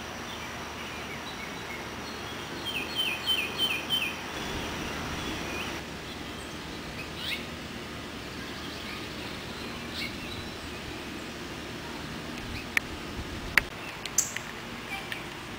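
Backyard birds calling: a quick run of about five down-slurred whistled notes a few seconds in, then scattered chirps, with a few sharp clicks near the end over steady outdoor background noise.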